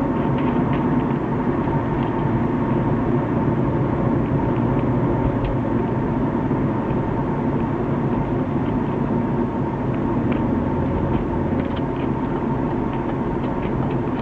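BMW E36 320i automatic driving, with steady drivetrain and road noise and a faint steady whine running through it. The whine is the sign of a failing driveshaft center bearing.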